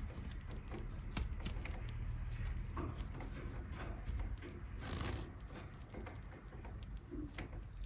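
Bengalese finches moving about their cage, a scatter of irregular light clicks and taps over a low rumble.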